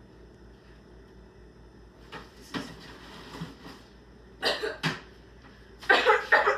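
A person coughing in a series of short, irregular coughs, beginning about two seconds in and growing louder toward the end, from breathing in the smoke of bread burnt in a microwave.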